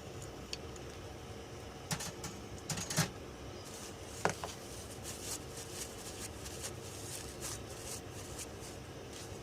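Steady machine hum with a faint held tone, broken by a few sharp clicks about two, three and four seconds in, then lighter scattered ticks.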